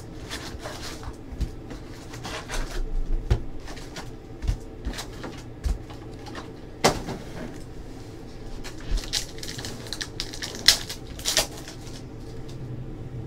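Trading cards and their packaging handled on a table: scattered rustles with light clicks and taps, as cards are sorted and sleeved.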